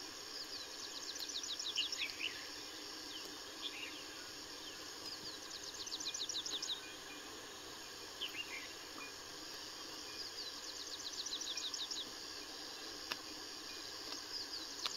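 A bird singing a quick run of high notes, repeated three times about every five seconds, over a steady high hiss of insects. A few short single chirps come in between.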